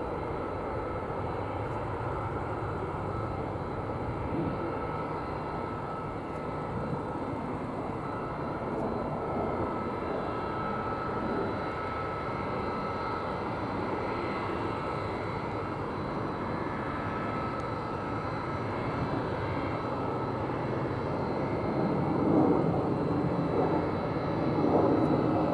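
Jet engines of an Airbus A340-300 airliner running steadily: an even rushing noise with a faint high whine, growing louder near the end.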